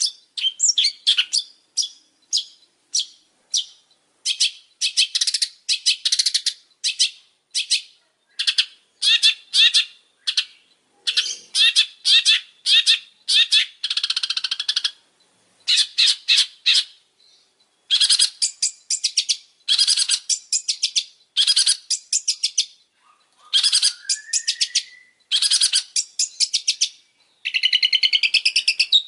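Long-tailed shrike singing persistently: rapid runs of harsh, rattling chatter notes in stuttering bursts separated by short pauses, with one rising whistled note a few seconds before the end.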